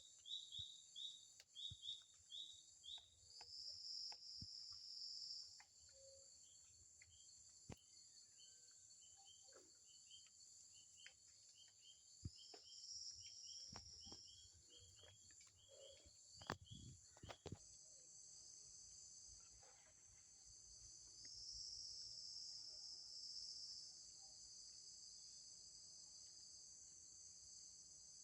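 An insect chorus of crickets and similar insects keeps up a steady high-pitched buzzing, with a louder trill swelling in three times. Through the first half there is also a quick run of short repeated chirps, along with scattered faint ticks and knocks.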